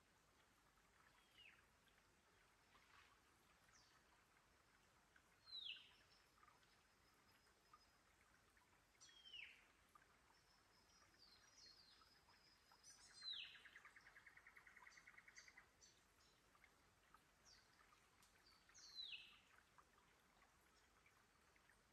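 Birds calling faintly: about five short calls that sweep downward in pitch, spaced a few seconds apart, with a rapid rattling trill about two-thirds of the way through. Under them is a faint steady hiss.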